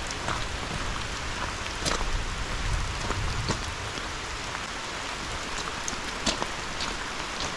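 Heavy rain falling steadily on rainforest foliage, with scattered sharper drops ticking close by.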